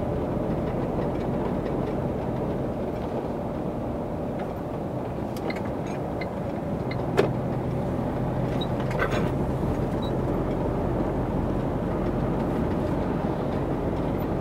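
Lorry cab interior while driving: steady engine and road hum, with a single sharp click about seven seconds in.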